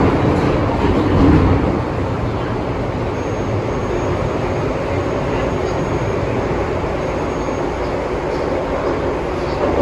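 MTR M-train metro car running on the Tsuen Wan Line, heard from on board: a steady rumble of wheels on rail and running noise, a little louder in the first second or so, with a faint high whine in the middle.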